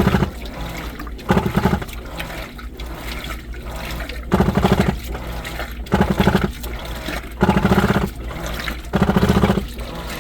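New washing machine in its wash cycle: water sloshing in the drum, broken by short, loud, harsh buzzing spells about six times, each under a second, as the drum turns. The owner calls it a stuck noise, which the machine makes while washing.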